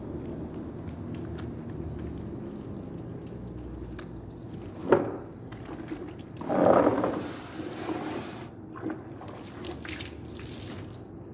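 Water splashing and dripping while a car is being washed, over a low steady hum. There is a sharp knock about five seconds in and a louder splash about a second and a half later, followed by smaller splashes.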